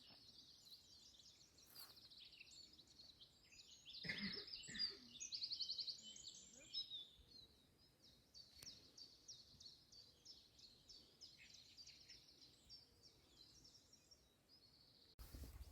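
Small birds singing faintly: quick chirps and rapid trills go on throughout, with a louder burst of song about four to six seconds in.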